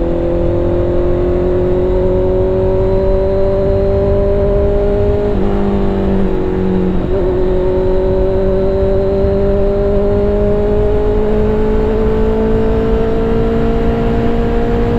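Superbike engine running under way, its note rising slowly as the bike pulls; the note breaks briefly about five to seven seconds in, like a gear change, then climbs steadily again, over a low wind rumble.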